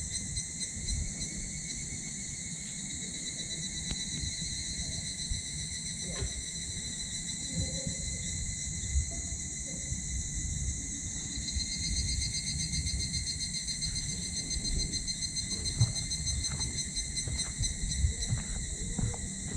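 Wood fire burning in a small titanium wood stove, with scattered crackles and pops that come more often near the end. Behind it, insects chirr steadily in several high, pulsing tones.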